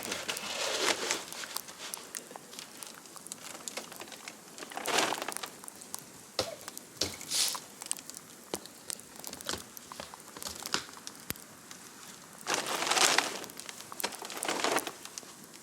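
Crinkling and rustling of a chicken feed bag being handled, in several separate bursts, the loudest pair near the end.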